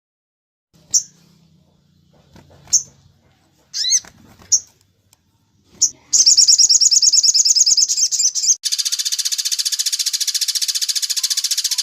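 Songbird calls: a few separate short, high chirps, then about six seconds in a rapid continuous trill, which changes near nine seconds into a harsher, buzzier rapid trill that carries on.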